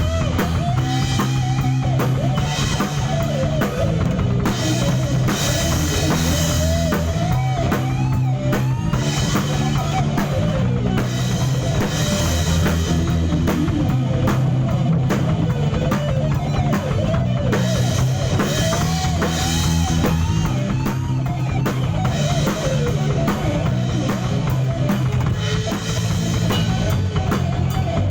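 A rock band playing live: a drum kit keeps a steady beat under a bass line moving between held notes, with a higher melody sliding and bending over the top.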